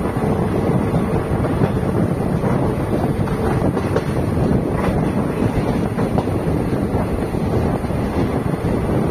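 Passenger train coach running at speed: a steady rumble of wheels on the rails, with wind buffeting the microphone.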